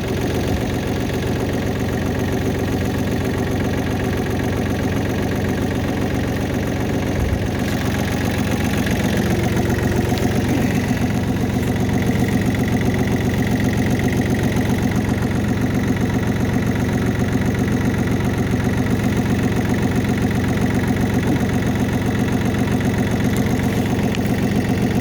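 Tractor engine idling steadily while it warms up after starting.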